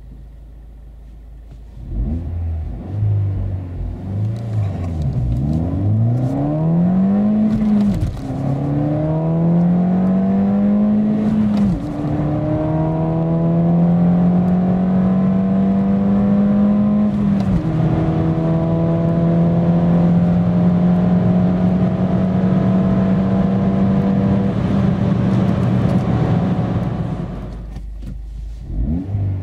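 The Ford Fiesta ST's 1.6-litre turbocharged four-cylinder engine, heard from inside the cabin, idles briefly and then goes to full throttle about two seconds in. The revs climb and drop back as the six-speed manual shifts up four times, at about 5, 8, 12 and 17 seconds. The engine then pulls steadily at high revs and falls away as the throttle is lifted near the end, settling back to idle.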